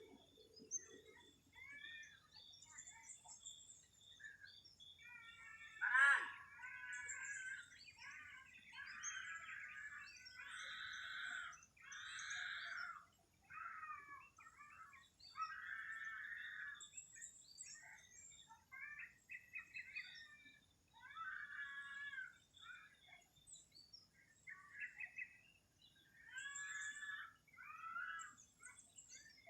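Several birds chirping and calling in short repeated phrases, a morning bird chorus. About six seconds in comes one loud, sharp sound that sweeps steeply down in pitch.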